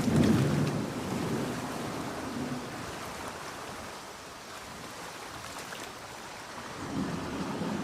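Rain and ocean surf making a steady hiss under a rumble of thunder that dies away over the first couple of seconds. The storm noise is quieter in the middle and swells again near the end.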